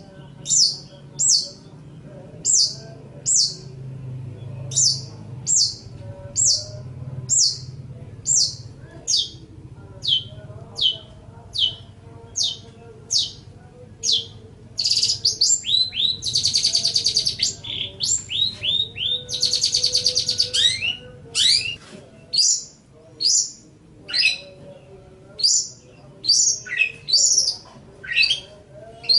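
Long-tailed shrike (cendet) singing: a string of sharp, high notes, each sliding downward in pitch, repeated about one and a half times a second. About halfway through, the notes are broken twice by a dense, buzzy chatter, then the sliding notes return.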